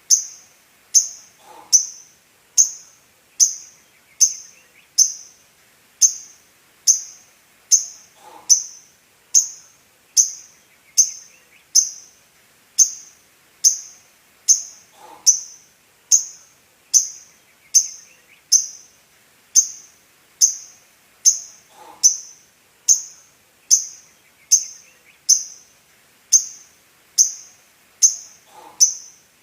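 Female lovebird calling: a short, sharp, high-pitched chirp repeated very evenly, about three calls every two seconds, with a fainter falling note about every seven seconds.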